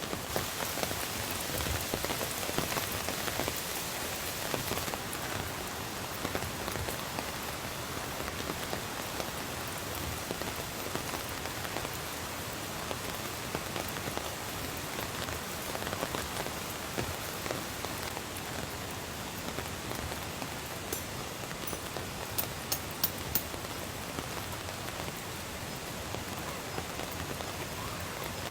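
Steady rain falling on a tent, a little heavier for the first few seconds. A few sharp clicks come about three quarters of the way through.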